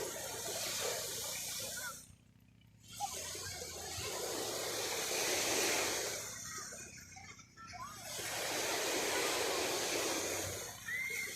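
Surf washing onto a beach: waves rush in and fade three times as a rising and falling hiss of water, with short lulls between.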